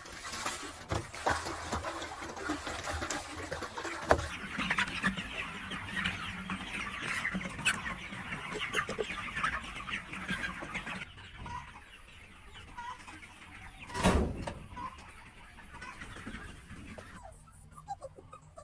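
A flock of chickens clucking and calling over one another, thickest through the middle, with a sharp knock about four seconds in and a louder dull thump later on.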